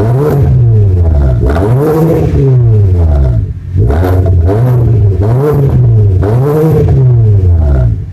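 2011 Hyundai Sonata's four-cylinder engine revved repeatedly through an aftermarket cat-back exhaust, the pitch rising and falling with each of about five blips of the throttle.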